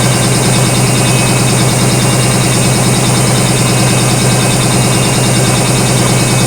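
Washing machine running mid-cycle on inverter battery power: its motor gives a steady, loud low hum with vibration.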